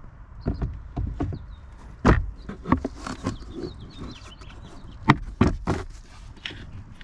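Irregular series of plastic clicks and knocks from refitting the glove compartment in the dashboard, with the sharpest knocks about two seconds in and twice around five seconds in.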